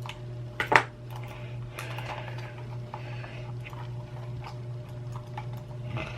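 Small sharp clicks and taps of hands and tools working on a computer mouse's plastic and metal parts, with one loud click a little under a second in, over a steady low hum.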